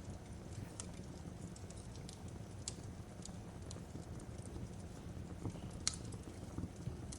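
Fireplace crackling: a steady low rumble of burning with scattered sharp pops and crackles, the loudest pop about six seconds in.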